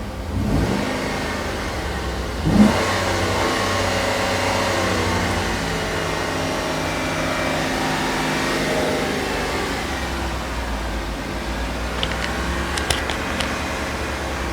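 2007 GMC Yukon's 5.3-litre Vortec V8 being revved: two quick blips about half a second and two and a half seconds in, then held at raised revs for several seconds and let fall back to idle about ten seconds in. It runs smoothly, healthy for 162,000 miles. A few light clicks near the end.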